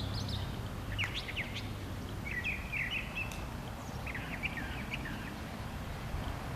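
Birds chirping in several short runs of quick high notes, over a low steady background rumble.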